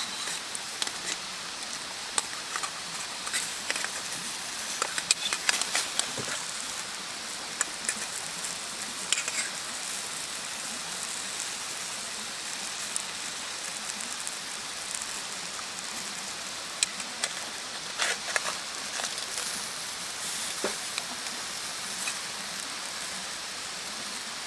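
Wood bonfire crackling: irregular sharp pops and snaps over a steady hiss.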